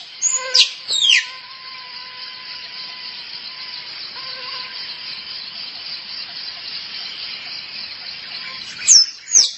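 Squirrel calling for a mate with sharp, steeply falling chirps: two about a second in and two more near the end. The calls sound over a steady high insect hiss.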